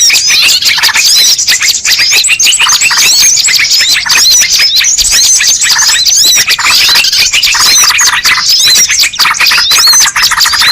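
A loud, dense chorus of many small birds chirping and twittering together, quick high notes overlapping without a break: a bird-lure (pikat) recording played to draw wild birds in.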